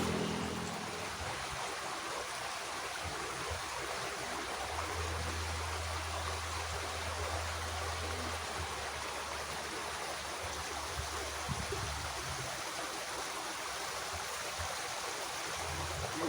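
Water running steadily in a small irrigation ditch, an even rushing, with a faint low hum under it for a few seconds in the middle.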